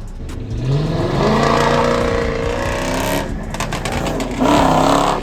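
A car engine revved hard under acceleration, its pitch climbing. It eases off about three seconds in, then gives a second loud burst of revs that cuts off abruptly.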